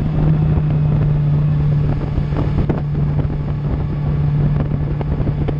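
Suzuki GSX-R750's inline-four engine with an Akrapovic exhaust, running at a steady, unchanging engine speed while the bike is ridden. Wind noise on the microphone throughout.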